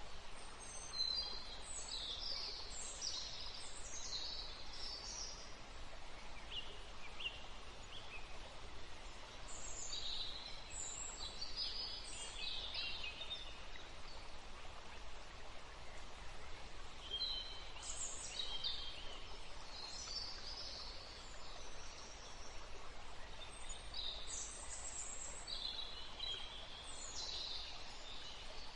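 Small songbirds singing, high chirping and trilling phrases coming in clusters every few seconds, over a steady background hiss.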